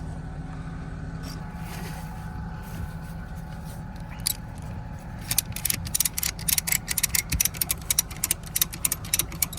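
Ratchet strap being cranked tight, a quick run of sharp clicks, several a second, starting about halfway through, over a steady low engine idle.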